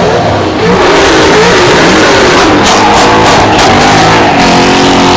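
A car engine revving hard, its pitch climbing and falling, over a loud music track.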